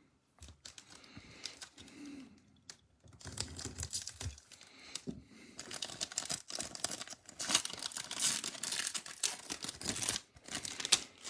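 Baseball card pack wrapper being torn open and crinkled by gloved fingers, a dense crackling rustle that grows busier a few seconds in.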